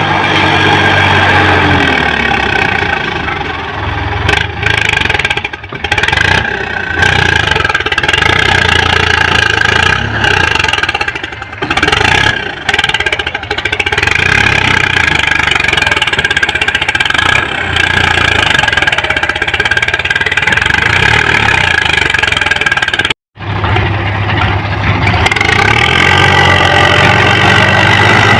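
Sonalika DI tractor's diesel engine running while hauling a loaded trolley, its speed rising and falling now and then. A sudden break of about half a second comes near the end.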